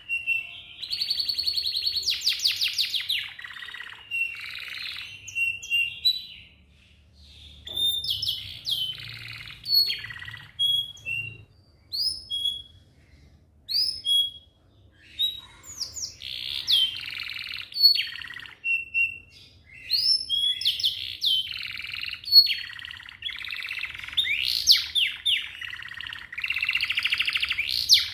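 Domestic canary singing: fast rolling trills at the start, then a stretch of separate sharp upswept notes with short pauses, and dense rolls again from about halfway on.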